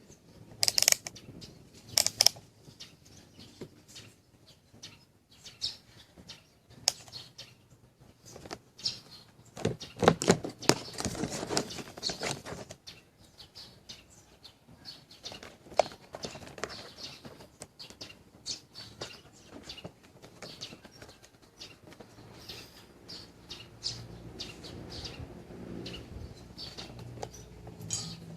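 Irregular clicks, taps and scraping from a pop-up toaster being handled and worked on, with a dense burst of rattling about ten seconds in.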